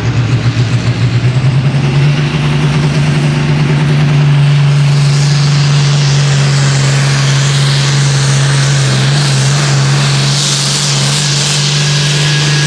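Diesel engine of an Enhanced Farm pulling tractor at full throttle under load: a loud, steady drone that pulses for the first couple of seconds, then holds.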